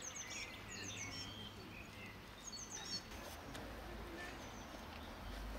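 Small birds chirping in short, quick high notes that sweep downward, in a cluster in the first second and again about two and a half seconds in, over a faint steady low outdoor rumble.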